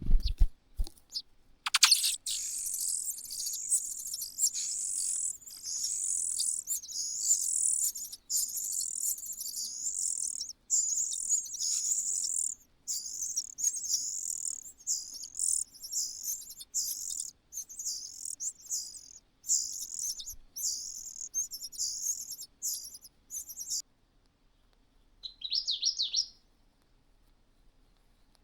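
A cuckoo calling in a long run of fast, high-pitched chirps, broken by short pauses and stopping about 24 seconds in, followed by one brief high call.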